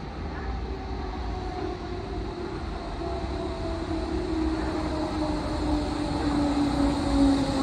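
Berlin S-Bahn electric train approaching along the track into the station, a low rumble growing gradually louder, with a motor whine that slowly falls in pitch.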